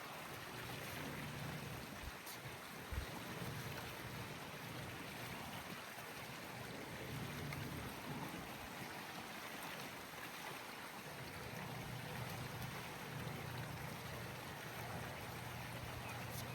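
Swimming pool being vacuumed: steady water noise over a low hum, with one short thump about three seconds in.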